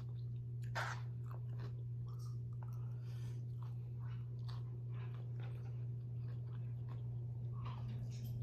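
Close-up chewing and crunchy bites of food, in short crisp crackles, the strongest about a second in, over a steady low hum.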